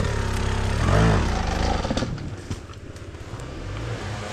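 Enduro dirt bike engine revving, rising in pitch to a loud peak about a second in, then dropping back and fading.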